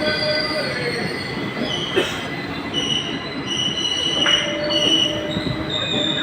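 Train wheels squealing against the rails over a steady rumble: several high squeals that start and stop, with a sharp clank about two seconds in.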